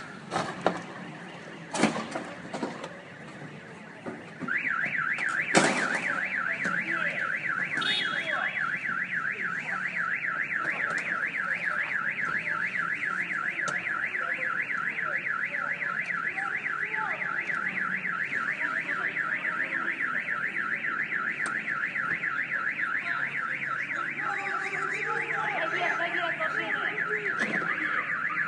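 An electronic alarm siren sounding a fast up-and-down warble that repeats without a break, starting about four seconds in after a few sharp knocks.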